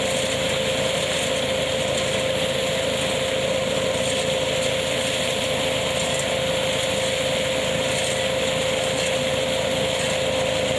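KF-501 hazelnut harvesting machine running steadily on a tractor's drive, with one constant tone over the even noise of the machine.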